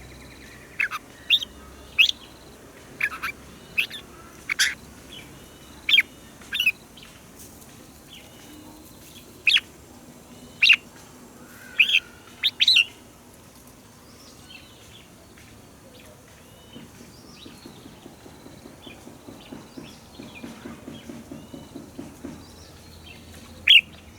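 Red-whiskered bulbul singing: loud, short whistled notes in brief irregular phrases, mostly in the first half, with one more loud note near the end. A faint, rapid low pulsing runs through the later part.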